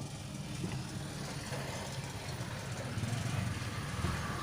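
A motor vehicle engine idling, a steady low rumble with hiss above it.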